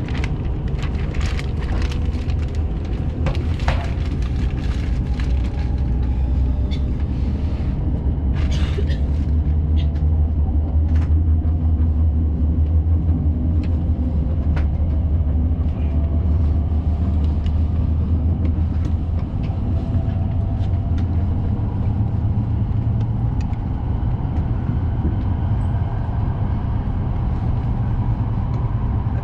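Shinkansen high-speed train running, heard inside the passenger car: a steady, heavy low rumble with a faint whine slowly rising in pitch and a few sharp clicks in the first several seconds.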